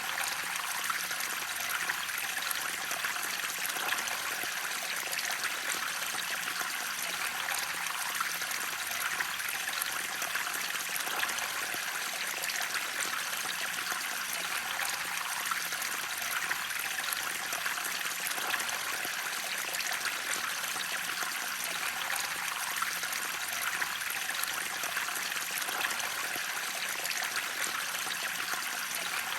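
Water flowing steadily in a stream or small waterfall: an even, unbroken rush with fine splashing and trickling.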